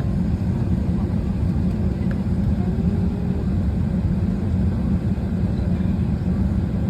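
Steady low hum inside an Airbus A320 cabin parked at the gate, from the cabin air-conditioning airflow, with no engines running yet.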